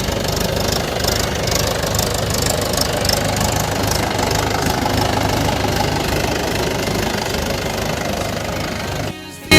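A motor vehicle engine running steadily at an even pace, with no change in speed.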